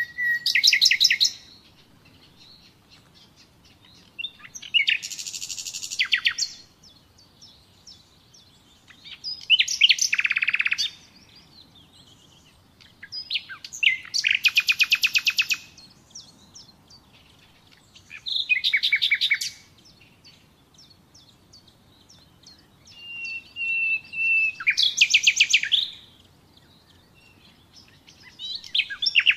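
Common nightingale singing: a phrase of one to three seconds about every four to five seconds, most built of rapid repeated notes, two opening with a long held whistle, with quiet pauses between.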